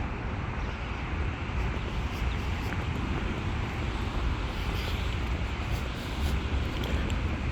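Steady outdoor city ambience: a low rumble of traffic with wind on the microphone, and faint light ticks through the middle of it.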